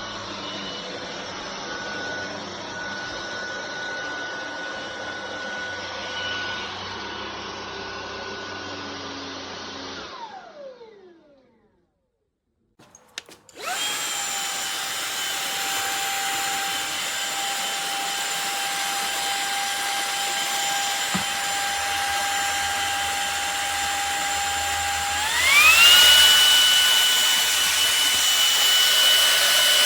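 Cordless stick vacuum's brushless motor running with a steady whine, then switched off and winding down to a stop about ten seconds in. After a moment of silence and a click it starts again, and a few seconds before the end it steps up to a higher, louder whine as a stronger power setting is selected.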